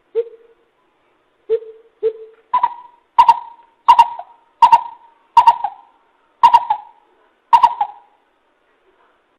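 Coucal (bìm bịp) calling: three deep, soft hoots, then a run of seven louder, higher hoots spaced a little under a second apart. Each hoot starts with a sharp click.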